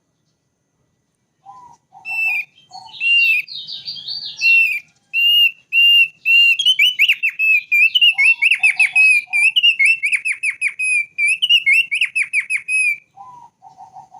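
Thick-billed white-eye singing: after a second and a half of silence, a long run of fast, clear whistled notes held near one pitch and broken by quick trills, which stops about a second before the end. Short, lower notes sound a few times alongside, at the start, in the middle and near the end.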